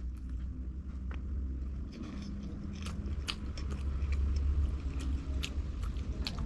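Close-miked chewing of food, with a handful of sharp, crisp mouth clicks and crunches scattered through, over a steady low rumble.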